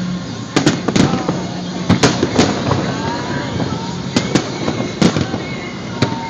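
Fireworks show: aerial shells bursting in an irregular string of sharp bangs, some in quick pairs, about a dozen in all, with crowd voices underneath.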